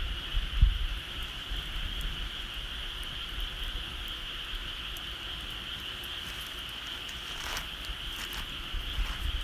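A steady high-pitched chorus of small calling animals, with scattered faint crackles from a wood bonfire and a few low thumps near the start.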